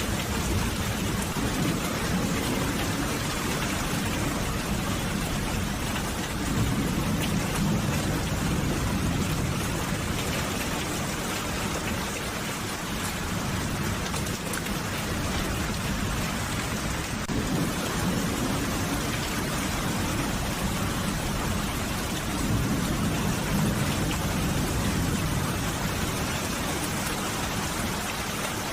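Steady rain, with low rolling rumbles of thunder swelling up twice.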